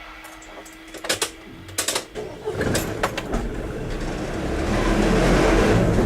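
A road vehicle's engine and tyres get louder as it drives up to and over the level crossing, after a few sharp clicks about one and two seconds in.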